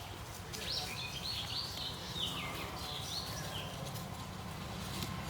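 Birds chirping: a quick run of short, wavering calls for a few seconds, over a steady low background rumble.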